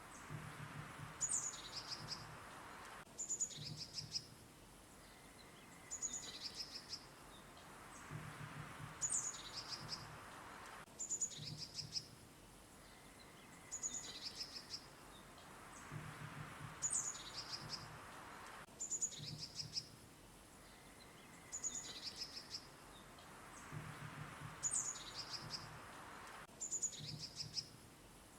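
Songbirds chirping in quick bursts of short, high notes over a soft hiss. The same passage repeats about every eight seconds, like a short loop.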